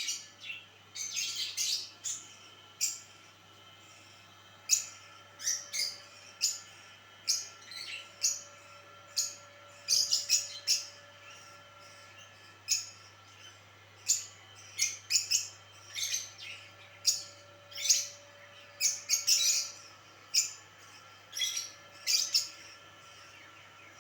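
Pet parrots chirping: many short, sharp, high calls, often one or two a second and sometimes in quick clusters.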